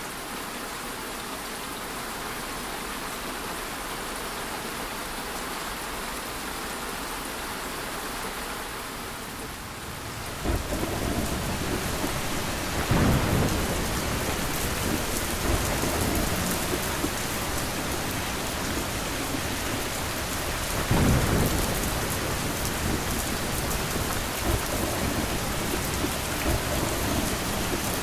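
Steady rain that about a third of the way in turns heavier and fuller, with two low rolls of thunder, one a few seconds later and one past the middle.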